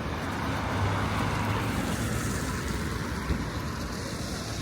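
City street ambience dominated by road traffic: a steady wash of passing vehicle noise, with a low engine hum swelling about a second in, and a faint knock near the three-second mark.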